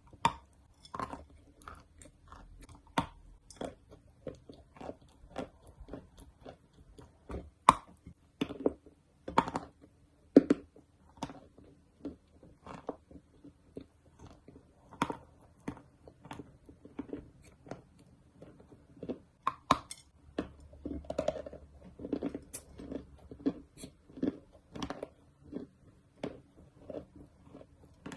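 Dry edible clay being bitten and chewed close to the microphone: a steady run of crisp, irregular crunches, several a second, with a few louder snaps as pieces break.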